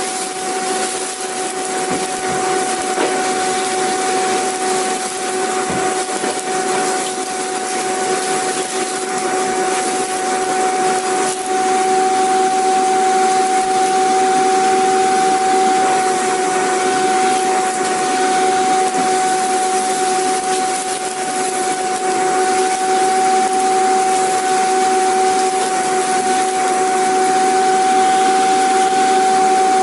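Vacuum cleaner motor running continuously, a steady rushing hiss of air with a constant high whine over it.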